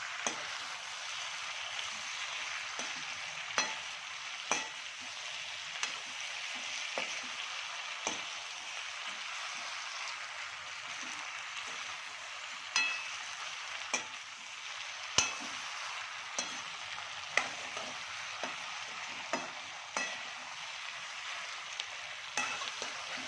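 Chilli chicken stir-frying dry in a pan with a steady sizzle, no water added. A spatula knocks against the pan at irregular intervals of a second or two.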